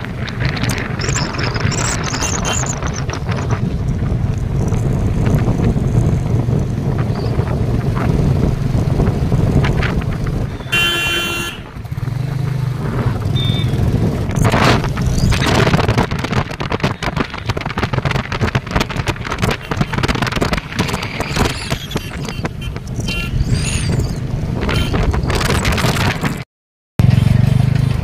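Royal Enfield motorcycle engine running while riding along a road, with a steady low exhaust thump under rushing wind noise. A vehicle horn sounds briefly about eleven seconds in, and the sound cuts out for a moment near the end.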